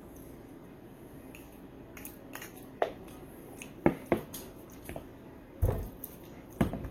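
A person eating close to the microphone: chewing, with several sharp clicks and knocks, the loudest about four seconds in.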